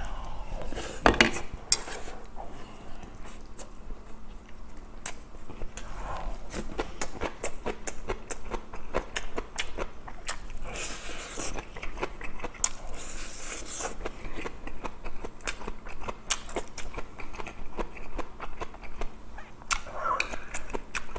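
Close-miked chewing and mouth sounds of someone eating grilled fish and rice, with frequent small clicks of chopsticks and utensils against the plate and a couple of sharper clicks about a second in.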